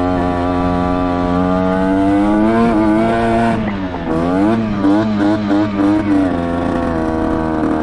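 Derbi Senda motorcycle engine running at idle. It revs up gently, dips, then is blipped on the throttle about five times in quick succession before settling back to a steady idle.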